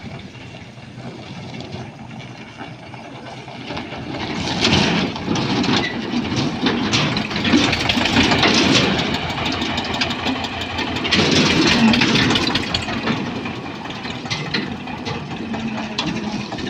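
Tractor engine running, growing louder about four seconds in and staying loud until near the end, then easing off.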